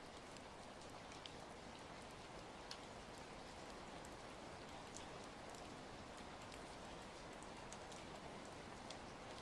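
Ambient track of steady rain mixed with a crackling fire: an even, quiet hiss with occasional sharp pops.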